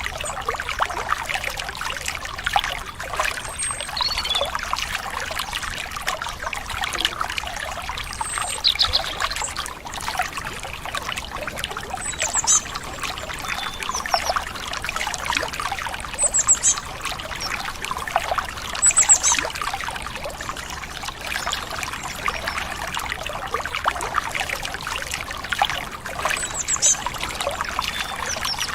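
Stream water trickling steadily, with short high bird chirps every few seconds.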